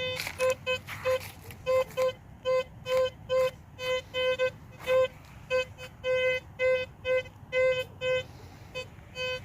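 Teknetics T2SE metal detector in all-metal mode beeping as its coil is swept over the ground: repeated short tones at one unchanging pitch, about two to three a second, some held longer than others, as the machine responds to the ground and buried metal.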